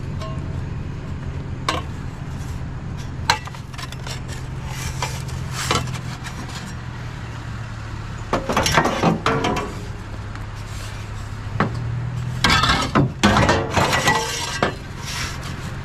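Scrap metal clanking and clattering as pieces are handled and bent, with scattered knocks and two busier flurries of clatter, one about halfway and one near the end, over a steady low hum.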